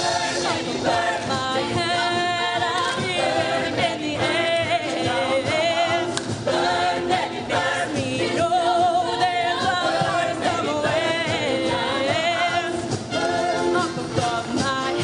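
Show choir singing, many voices holding long notes with vibrato.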